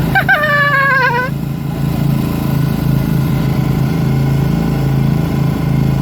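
Riding lawnmower engines idling steadily. In the first second or so there is a high, wavering call that slides down in pitch over them.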